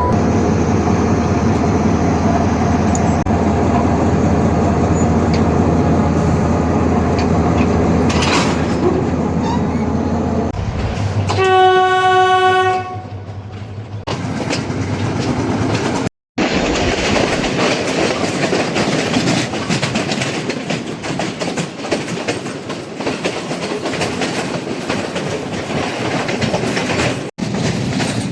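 Train's diesel locomotive engine running steadily, then one horn blast of about a second and a half near the middle. After a cut, a moving train's wheels clicking over the rail joints with steady running noise.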